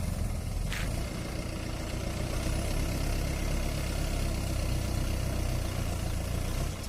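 Mahindra 585 DI tractor's diesel engine running steadily at low revs, dropping in level just before the end.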